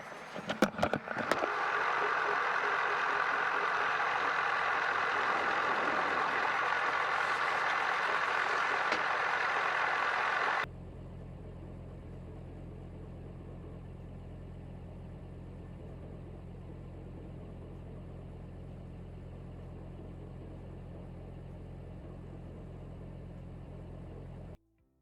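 Helicopter cabin noise: a steady loud rush of rotor, engine and wind, with a quick run of sharp bangs in the first second or so. About ten seconds in it cuts off abruptly to a quieter steady low hum, which stops just before the end.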